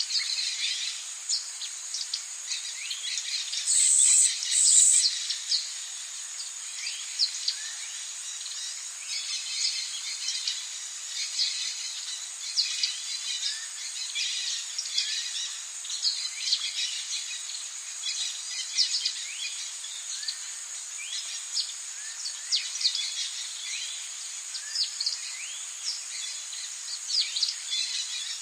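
Rainforest birds chirping and calling over a steady high insect drone. Two loud shrill calls stand out about four and five seconds in.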